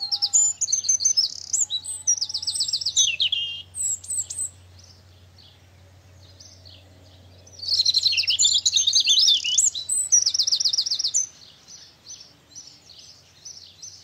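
A songbird singing two loud bouts of high song with rapid trills, one at the start and one about eight seconds in, with softer chirps between and after.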